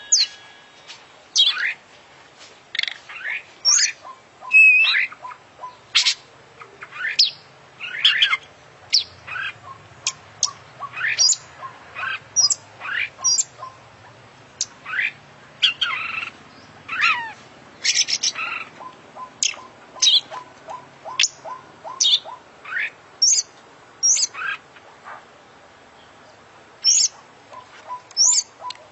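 Oriental magpie-robin (kacer) singing a varied song of loud, sharp whistled notes and quick sweeping chirps, in short phrases with brief pauses between them. Its song is packed with phrases copied from other birds.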